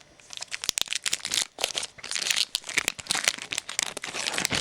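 Foil wrapper of a trading-card pack crinkling in the hands as it is torn open, a dense run of irregular crackles that stops suddenly at the end.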